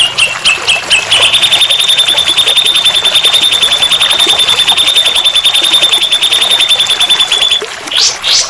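Songbird song from a masteran (bird-tutoring) recording: a few short whistled notes, then a long, even, rapid high trill of about ten notes a second held for some six seconds, with quick sweeping notes starting near the end.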